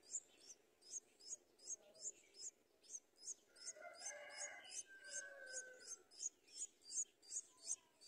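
Thin, high-pitched bird chirps repeated evenly, about three a second, with a softer, lower call in the middle that falls in pitch.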